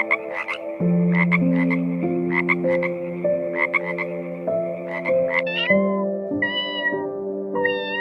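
Animal calls over sustained background music chords. For the first five seconds or so there are rapid rattling clicks in short clusters, about one cluster every half second. These give way to three drawn-out pitched calls that bend downward at the end.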